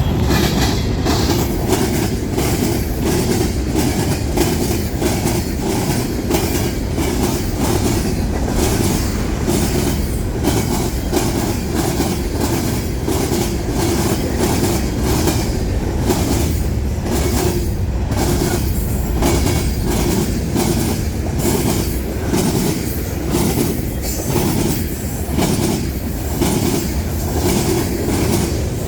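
Freight cars of a manifest train rolling steadily past, their steel wheels clicking over the rail joints in a continuous clickety-clack over a rumble.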